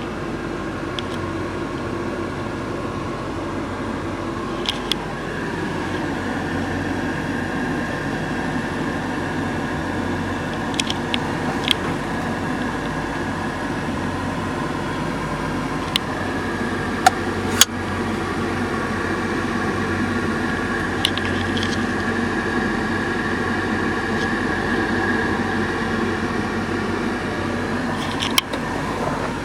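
1973 Chevrolet Corvette's V8 engine running steadily, its pitch shifting about five seconds in, with a few brief sharp clicks or knocks scattered through.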